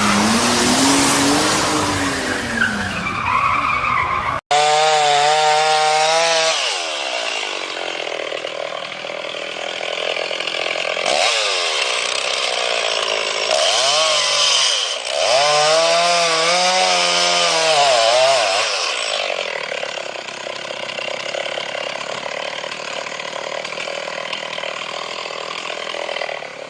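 Off-road vehicle engine revving hard again and again, its pitch climbing and falling with each swell of throttle. An abrupt cut about four seconds in joins two separate clips.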